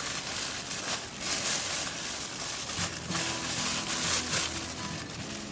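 Fresh lettuce being cut, crisp crunching and rustling in short bursts. Faint music with steady held notes comes in about three seconds in.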